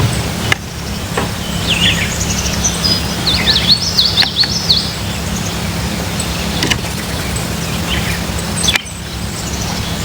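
Songbirds chirping, with a quick run of repeated high notes a few seconds in, over a steady low background rumble.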